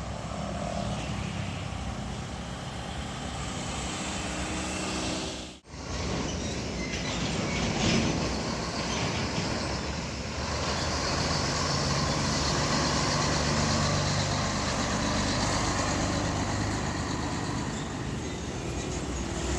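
Heavy diesel trucks running and driving past on a road, engine drone over tyre and traffic noise. The sound cuts out abruptly about five and a half seconds in and picks up again with another truck.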